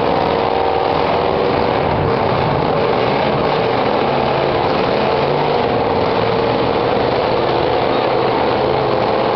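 Several demolition derby cars' unmuffled engines running hard together in a loud, continuous din, their pitch wavering as they are worked.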